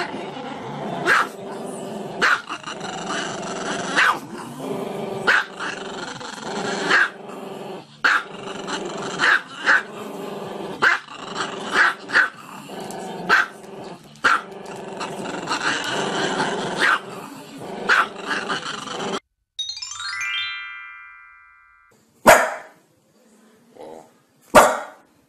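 A small long-haired Chihuahua-type dog vocalising continuously with its head raised, a drawn-out grumbling howl broken by sharp barks about once a second. About 19 seconds in it cuts off. A short electronic stepped rising tone follows, then two short sharp sounds.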